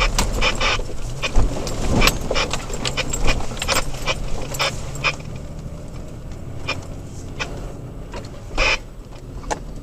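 Third-generation Toyota Tacoma heard from inside the cab on a rough off-road trail: a steady low engine and road hum under frequent sharp rattles and knocks from the bouncing truck. The knocks are dense in the first half and thin out after about five seconds.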